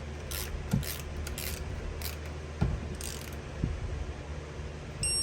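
Ratchet torque wrench worked in short strokes, clicking and scraping as it tightens an engine bolt, with a few soft knocks of the tool against the engine.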